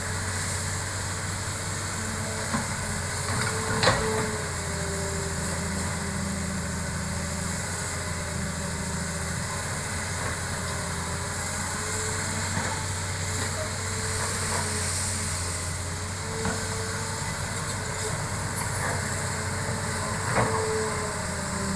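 Hitachi hydraulic excavator running steadily at work, a low engine hum under a higher whine that comes and goes, with a few sharp knocks, the loudest about four seconds in.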